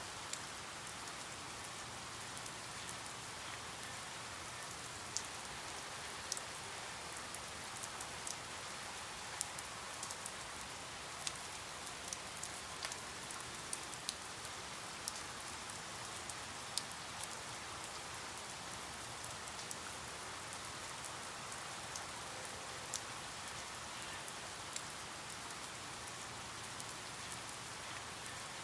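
Steady rain falling, an even hiss with scattered sharp drips of individual drops striking a surface.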